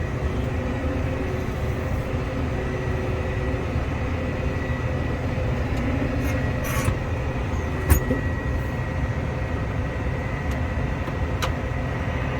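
Case tractor's diesel engine running steadily under way, heard from inside the cab, with a thin steady high whine over the engine noise. A single sharp knock comes about eight seconds in.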